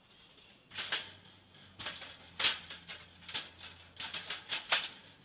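Irregular rustling and clicking from objects being handled, about a dozen short noises with uneven gaps.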